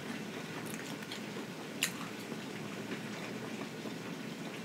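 Steady hiss of rain heard from indoors, with a few faint clicks of closed-mouth chewing.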